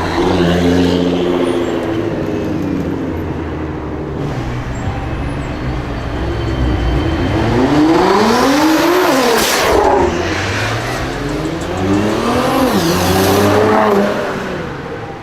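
Nissan GT-R R35's twin-turbo V6 revving hard, its pitch climbing and falling in long sweeps. The two loudest, highest climbs come just past the middle and again near the end.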